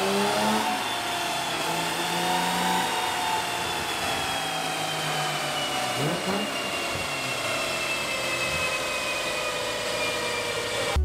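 Fuel-injected Jaguar E-Type engine running under load on a rolling-road dyno, with a high whine that falls slowly in pitch, while its standalone fuel injection is being mapped from a laptop.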